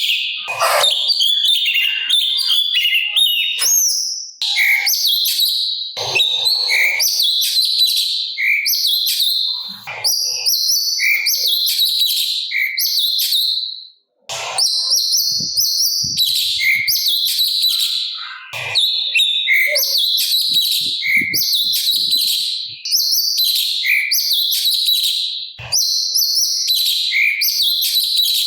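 Cucak cungkok singing loudly in long runs of rapid, varied chirping phrases, broken by short pauses, the longest about halfway through.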